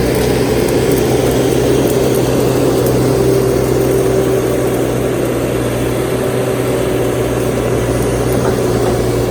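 Bobcat T650 compact track loader's diesel engine running steadily at working throttle, close and loud, as the machine works a root grapple through brush.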